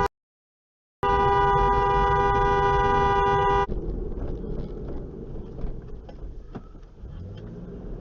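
A car horn sounds in one long, steady blast of about two and a half seconds, starting about a second in and cutting off sharply. Lower road and engine noise from the car follows.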